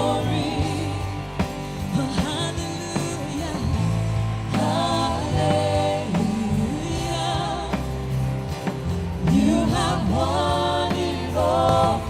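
Live church worship band playing a slow praise song, with singers holding long notes with vibrato over a steady bass line.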